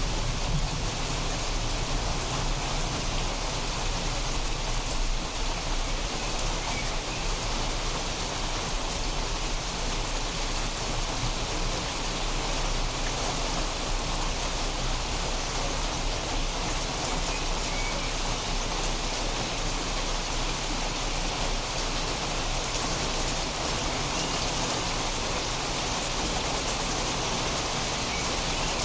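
Steady, heavy rain falling during a thunderstorm, an even hiss of drops on surfaces.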